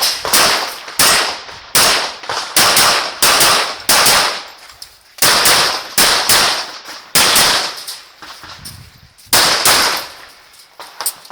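A string of pistol shots fired in quick succession, about a dozen, in bursts of two or three with short pauses, each shot ringing out briefly.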